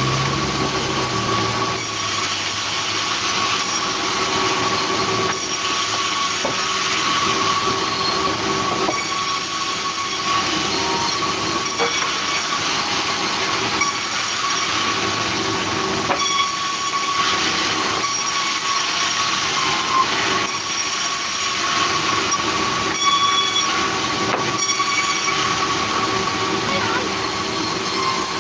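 Sawmill saw running steadily and cutting timber, a loud grinding noise with a thin high squeal held throughout.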